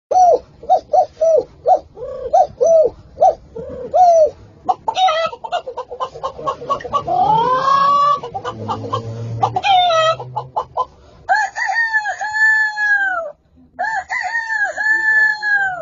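A person imitating chickens with the voice: a run of short clucks, then a rising rooster-style crow about seven seconds in, and two long drawn-out calls near the end.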